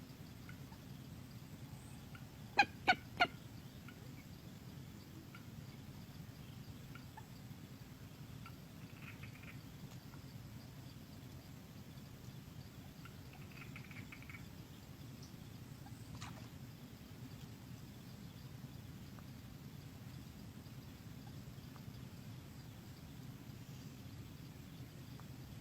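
Common moorhen giving three sharp, loud call notes in quick succession about two and a half seconds in, then a few faint calls over a steady low hum.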